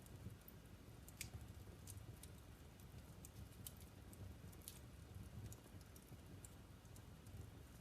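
Wood fire of burning logs in a fireplace, crackling faintly: scattered sharp pops and snaps, one or two a second, over a soft low rumble of the flames.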